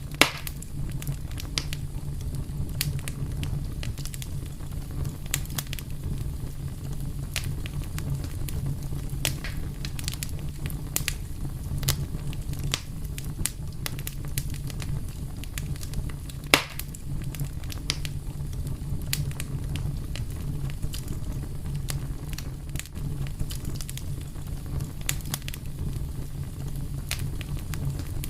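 Wood fire crackling: irregular sharp pops and snaps scattered over a steady low rumble of the flames, with one louder pop about halfway through.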